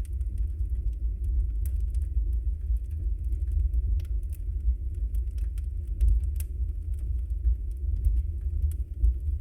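Wood fire burning in a fireplace: a steady low roar with frequent irregular crackles and pops from the burning logs.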